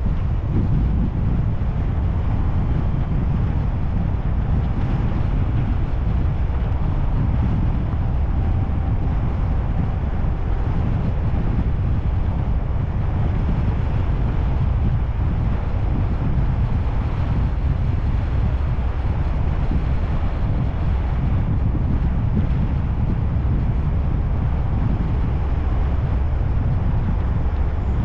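Steady low rumble of a car being driven: engine, tyre and wind noise, unchanging throughout.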